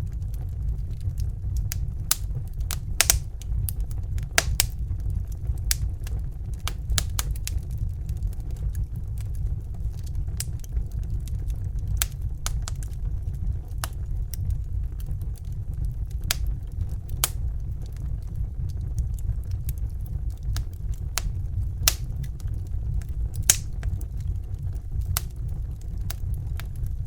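Crackling fire: irregular sharp pops and snaps, a few each second, over a steady low rumble.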